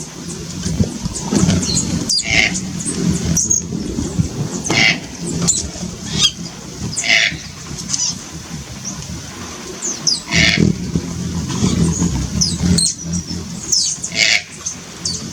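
Red-breasted toucan (green-billed toucan) giving a rough, low croaking series, repeated throughout, with sharper, higher calls breaking in every second or two.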